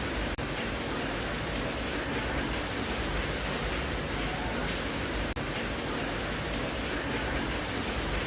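Steady rain noise, an even hiss with no let-up, broken by two momentary dropouts, about a third of a second in and again about five seconds in.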